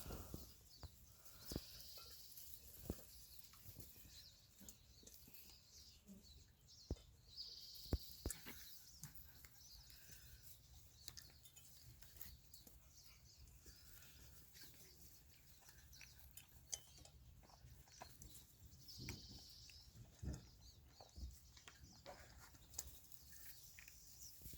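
Near silence with scattered faint knocks and rustles from young animals moving about on a wooden block and sawdust, and a few brief high chirps.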